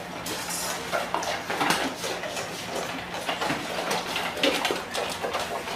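Scattered light clinks and knocks of dishes and bowls, over a low steady hum.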